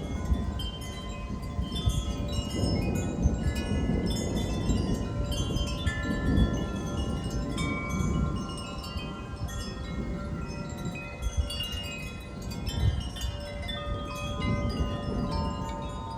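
Wind chimes ringing irregularly in gusty wind, many overlapping notes struck at random, over a low rumble of wind that swells and eases.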